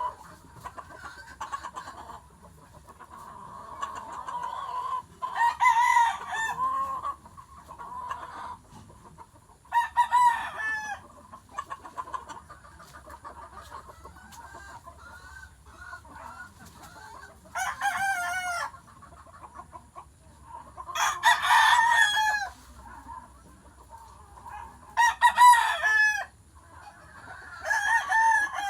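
Rooster clucking steadily, broken by about six loud, short calls spaced a few seconds apart.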